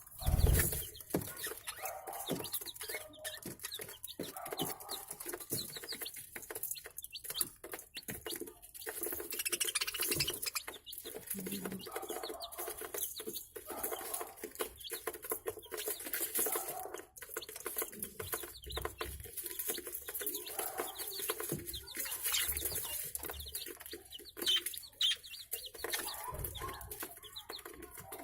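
A flock of budgerigars chirping and chattering continuously in a dense stream of short calls. A single loud knock comes right at the start.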